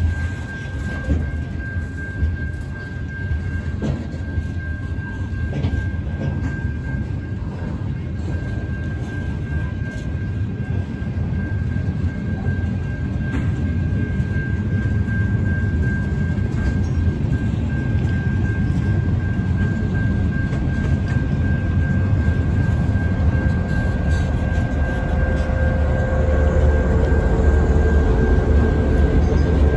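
Loaded ballast hopper wagons rolling past with a steady low rumble and wheel clatter, over a thin steady high-pitched tone. Over the second half it grows louder as the trailing diesel locomotives draw near, and their engine hum comes in near the end.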